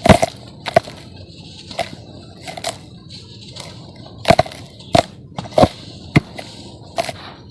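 Dry sand-cement chunks being crumbled, giving short, irregular sharp crunches and crackles over a faint gritty rustle. The loudest crunch comes right at the start.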